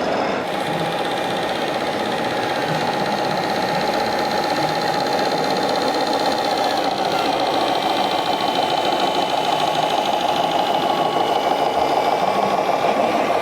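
Radio-controlled model truck running: a steady whine with a fast, even knocking pulse, like a small engine.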